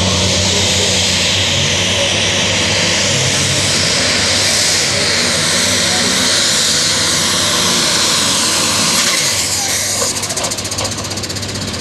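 Allis-Chalmers D21 super stock pulling tractor's turbocharged diesel running flat out under load while dragging the sled, a loud, steady, dense mechanical noise. About ten seconds in it eases off as the pull ends.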